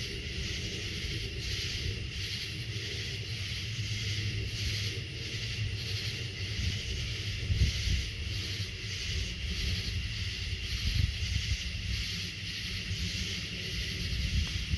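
Insect chirping in a steady pulse about twice a second, with wind rumbling on the microphone.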